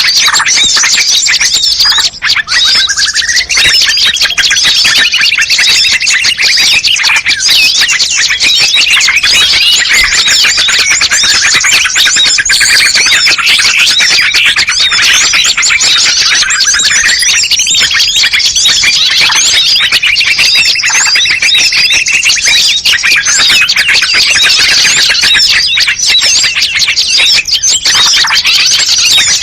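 Dense mixed chorus of small songbirds chattering and calling without pause, the kind of multi-species recording played to lure birds. A longer call that rises and then holds stands out twice, about 3 s in and again about 18 s in.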